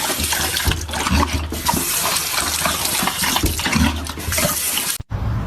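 Loud rushing, splashing water that stops suddenly near the end.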